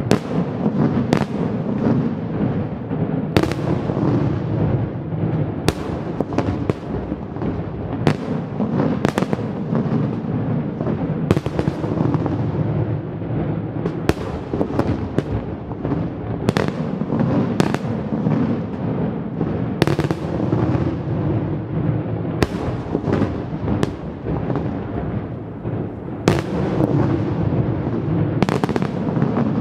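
Fireworks display, shells bursting in quick succession: sharp bangs about once a second over a continuous crackle and rumble of overlapping bursts.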